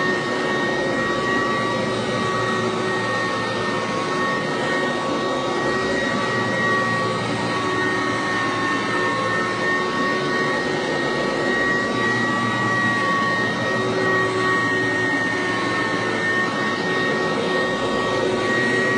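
Kirby Classic Omega upright vacuum cleaner running steadily: a constant rush of air with a high, slightly wavering whine over it.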